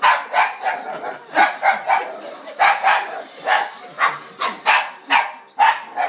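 Dog barking excitedly in a rapid run, two or three barks a second without a pause.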